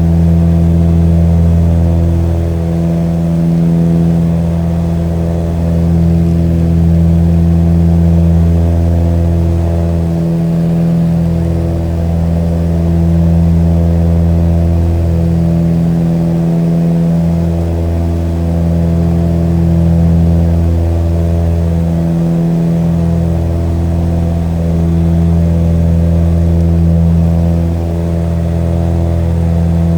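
Propeller airplane engine droning at a steady pitch, its deep hum swelling and fading every two to three seconds.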